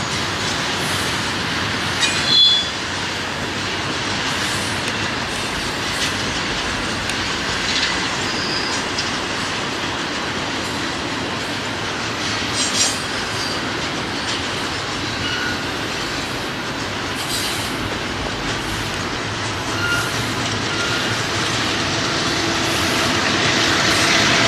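Freight train cars rolling past close by: a steady rumble of steel wheels on the rails, with scattered clicks over rail joints and a few short, high wheel squeals. It grows louder near the end.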